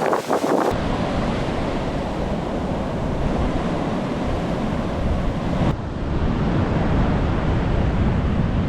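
Wind buffeting the camera microphone over the wash of ocean surf, a dense steady rumble that starts abruptly just under a second in.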